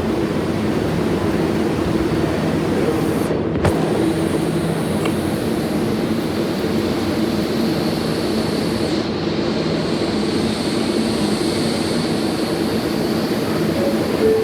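New York City subway R142A train running, a steady rumble with several held low motor tones and, from about nine seconds in, a thin high whine.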